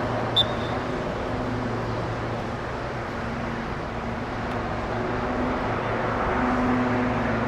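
Steady urban traffic noise with a low engine hum that swells and fades, and a brief sharp click about half a second in.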